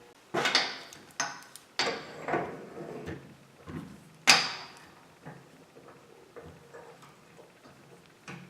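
Metal bolts and tools being handled and set down at a workbench: a run of clanks with a short ring after each, the loudest about four seconds in, then lighter clicks.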